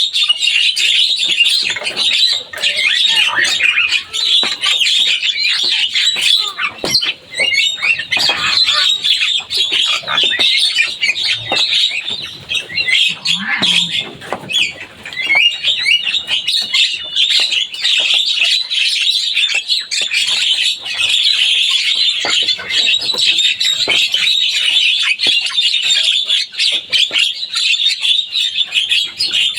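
Javan myna (jalak kebo) singing non-stop: a loud, dense stream of harsh chattering and squawky notes mixed with short whistles, barely pausing. Partway through, the song briefly thins and drops lower before resuming at full pace.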